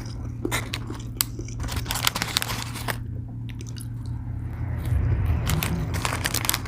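Close-miked biting and chewing of a fried chicken sandwich on a soft brioche bun, with repeated crisp crunches from the fried breading.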